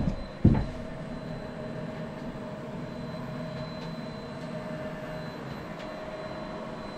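Vevor 8 kW 12 V diesel air heater running in its start-up phase, its blower fan giving a steady hum with a held tone and a faint high whine. A single heavy thump about half a second in.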